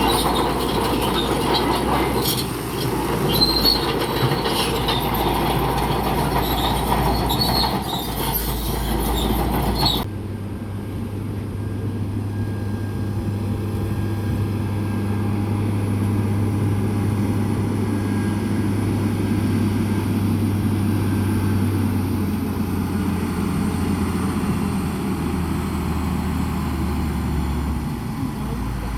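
Steel crawler tracks of a bulldozer squealing and clanking over its diesel engine, cut off abruptly about a third of the way in. Heavy diesel machinery running steadily follows.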